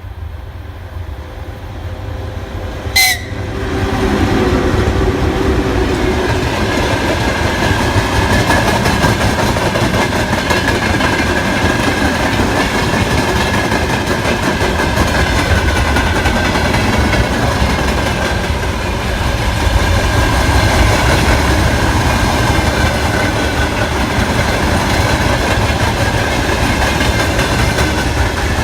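VL80T electric locomotive and its freight train running past: loud steady rumble and rattle of wheels on rail, with a thin wavering squeal from the wheels above it. The noise builds to full strength about four seconds in, just after a brief sharp sound.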